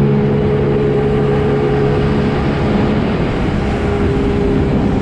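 Jet ski engine running at a steady speed under way, its even hum over a dense rush of wind and water noise.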